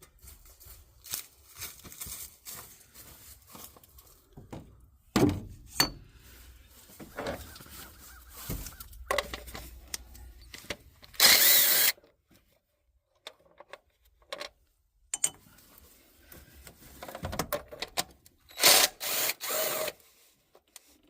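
Hand tools and parts being handled under the hood: scattered clicks, knocks and clinks, with two louder short rushing bursts, one about halfway through and one near the end.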